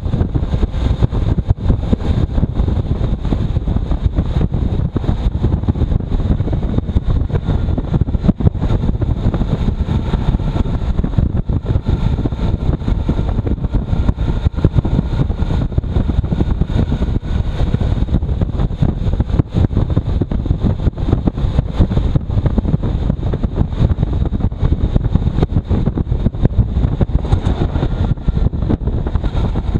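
Motorcycle riding along, its engine running steadily under heavy wind rumble on the microphone.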